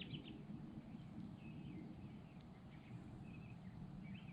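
Birds chirping faintly, a scatter of short calls, over a low steady rumble.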